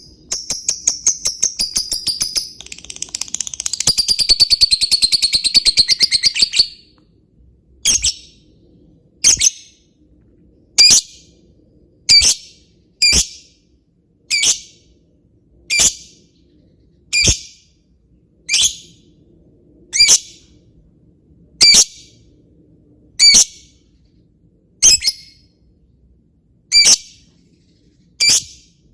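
Lovebird giving its rapid, staccato 'ngetik' chatter, many clicks a second, for about six and a half seconds, then breaking into single sharp high chirps repeated about every one and a half seconds.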